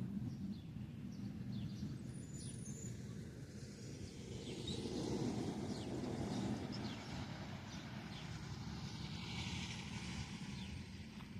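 Harvest machinery running at a corn silage harvest: a steady low rumble that swells louder about halfway through and then eases off, with faint short ticks above it.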